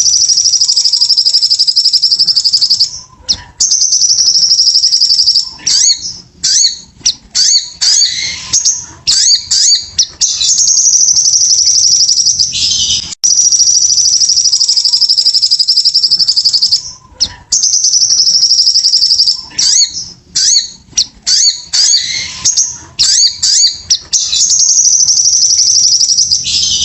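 Crimson sunbird (sogok ontong) singing: long, fast, high-pitched trills of about three seconds each, broken by bursts of choppy chirps. The same sequence repeats about every thirteen seconds, as a looped recording does.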